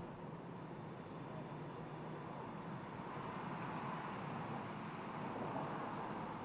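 A car running: a steady rumble with a hiss of wind or road noise, no revving and no sudden sounds.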